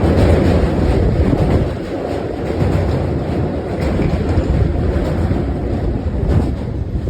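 Mumbai suburban electric local train running along the track: a loud, dense rumble of wheels and carriages, a little louder for the first couple of seconds.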